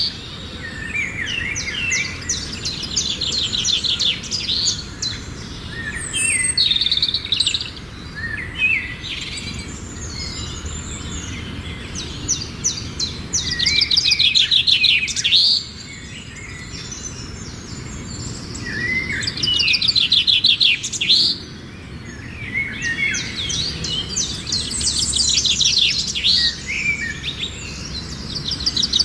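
A songbird singing in the forest: repeated phrases of fast, high trills, each a few seconds long and coming roughly every six seconds, with shorter chirps and rising notes in between.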